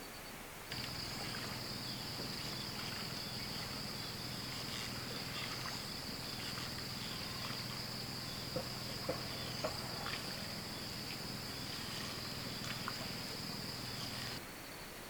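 Outdoor ambience with a steady high-pitched insect chorus over a low steady hum, and a few light knocks about halfway through. The sound switches on abruptly near the start and cuts off abruptly near the end.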